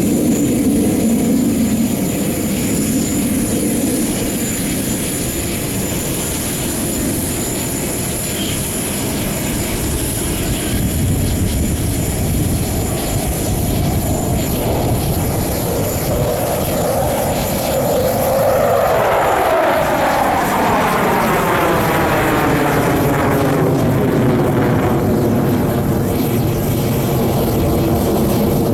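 Military jet fighters flying a display, their jet engines running as a steady noise; about two-thirds of the way through a pass sweeps down in pitch as the jets go by.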